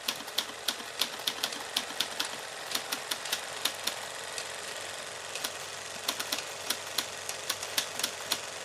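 Irregular sharp clicks or taps, a few a second, over a steady hiss, thinning out for a second or two about halfway through.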